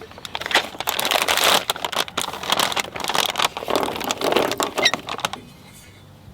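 Plastic snack packaging crinkling and rustling as it is handled and opened, in irregular crackly bursts that stop about five seconds in.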